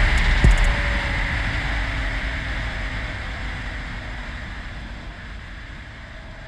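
A steady rushing noise that fades out gradually.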